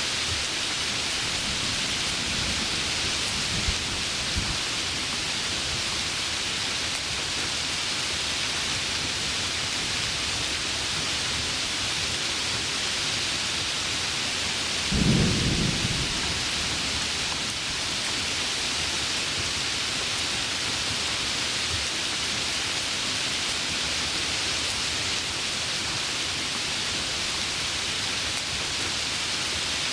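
Heavy rain falling steadily, with a few faint low rumbles early on and one louder clap of thunder about halfway through that rumbles for about a second.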